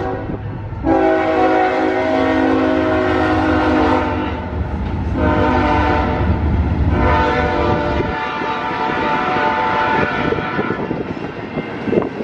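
Diesel freight locomotive horn blowing for a grade crossing: a long blast, a short one and another long one. A low locomotive rumble runs underneath and drops away about eight seconds in.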